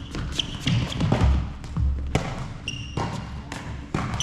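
Court sounds of a doubles rally: repeated heavy thuds of footsteps, sharp hits, and short high squeaks of shoes on the court floor, twice near the end.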